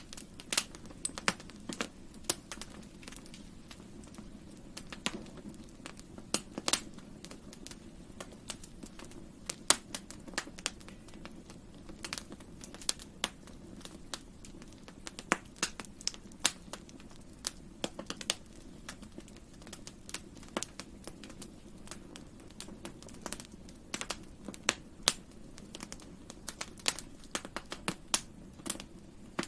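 Wood fire crackling, with sharp irregular pops and snaps several times a second over a steady low rumble of burning.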